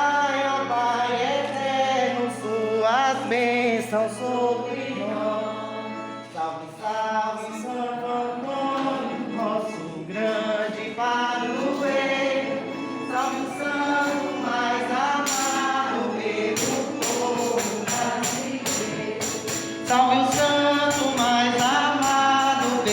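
A group of voices singing a devotional song to Saint Anthony. About two-thirds of the way through, a steady percussion beat joins in, a few strokes a second.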